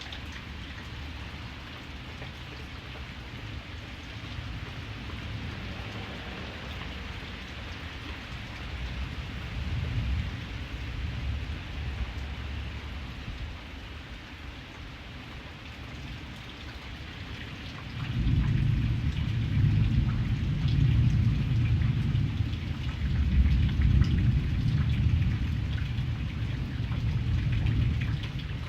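Steady heavy rain falling, with thunder rumbling low beneath it. A long roll of thunder comes in suddenly about two-thirds of the way through and keeps rumbling.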